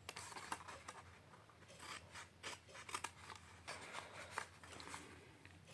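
Scissors cutting through cardstock, a series of faint, irregular snips.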